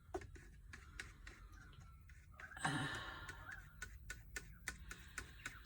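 Paint being stirred in a plastic yogurt pot, the stirrer making light, irregular clicks and taps against the pot's sides, with one brief louder noise about halfway through.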